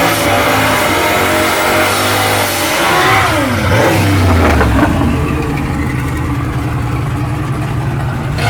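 Turbocharged Ford 302 V8 of a 1988 Fox-body Mustang GT at full throttle on a drag-strip pass, the revs climbing. About three seconds in the pitch drops sharply at a manual gear change, then climbs again under load.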